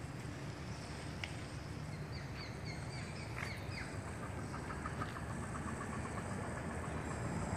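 Small birds calling in forest: a run of short, quick falling chirps about two seconds in, then a rapid even trill of repeated notes, over a steady low rumble.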